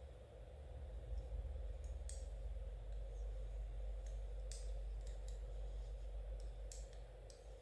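Knitting needles clicking against each other at an irregular pace: about eight light, sharp ticks over a steady low background hum.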